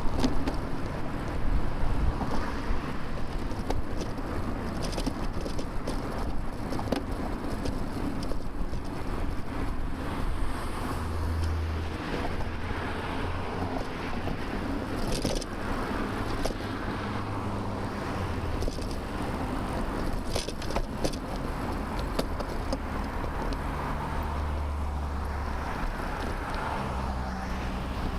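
Motor traffic passing a moving bicycle, a steady rush of tyres and engines with low engine hums from vehicles close by, heard from a camera on the bike with some wind on the microphone. Small clicks and rattles from the bike come through now and then.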